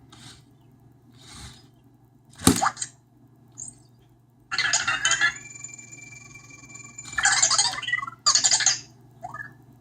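Anki Vector robot making a string of short electronic chirps and squawks in separate bursts, the sharpest about two and a half seconds in, one longer burst holding two steady thin tones, and a small rising squeak near the end.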